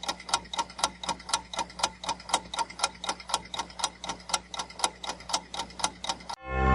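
Countdown-timer sound effect: a clock ticking evenly, about four ticks a second, while the quiz timer runs. Near the end the ticking stops and a louder sustained ringing tone starts, marking that time is up.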